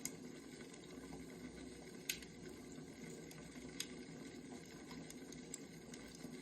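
Wood fire burning faintly, with a low steady rush and a few sharp crackling pops, the loudest about two seconds in.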